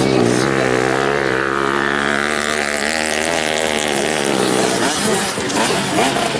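150 cc motocross bike engines running, the pitch wavering up and down with the throttle, then thinning out about five seconds in.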